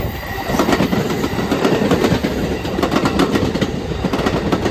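Amtrak Capitol Corridor passenger train's cars rolling past, steel wheels clacking over the rail joints.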